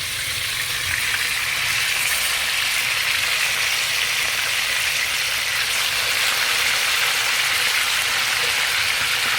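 Chicken pieces deep-frying in a pan of hot vegetable oil: a steady, dense sizzle.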